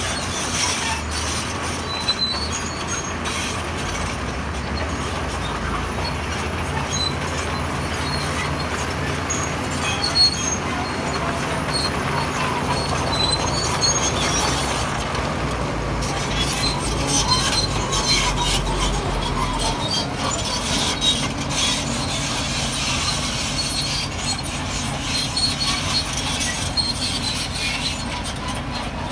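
Crawler bulldozer working: its diesel engine runs steadily under load while its steel tracks squeal and clank and rock scrapes and knocks throughout.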